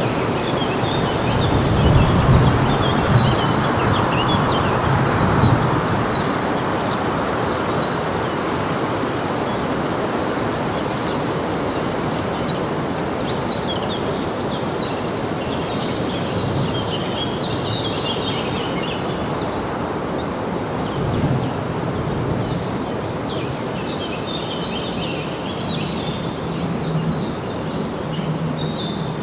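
Outdoor park ambience: a steady rushing hiss, with small birds chirping on and off throughout. Low rumbles come and go, loudest in the first few seconds and again about two-thirds of the way through.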